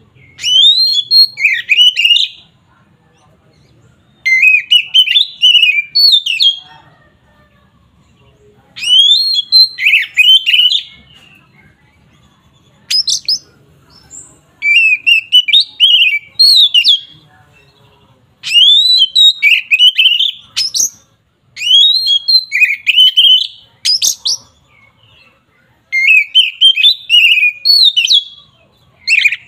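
Oriental magpie-robin (kacer) singing loudly in the open, full 'ngeplong' style. Phrases of about two seconds of rising and falling whistles with sharp high notes repeat again and again, with short pauses between them.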